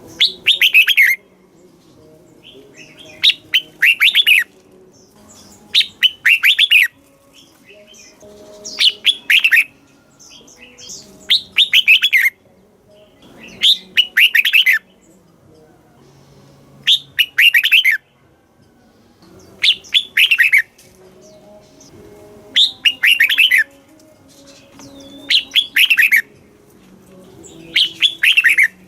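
Red-whiskered bulbul singing short phrases of quick, falling whistled notes, about one every two and a half to three seconds.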